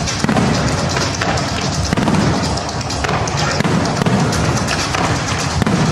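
Fireworks display: shells bursting and crackling in quick succession, with music and crowd voices beneath.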